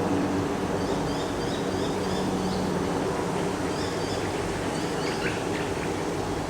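Steady wind noise with a low hum underneath, and small birds chirping in short high notes through the first half and again about four seconds in.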